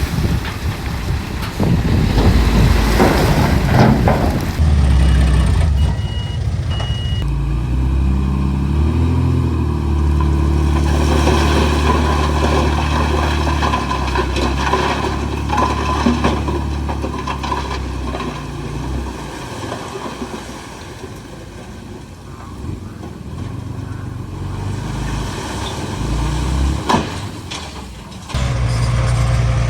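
Heavy diesel engines of earthmoving machinery running under load, their pitch rising and falling as they rev. Three short high beeps come about six seconds in.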